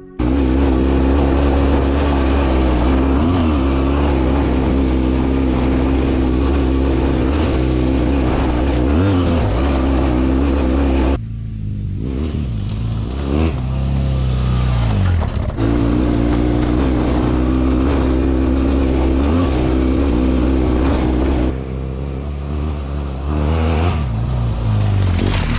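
BMW F800GS Adventure's parallel-twin engine running while riding a rocky dirt track, its note rising and falling with the throttle. The sound drops suddenly about eleven seconds in and comes back a few seconds later.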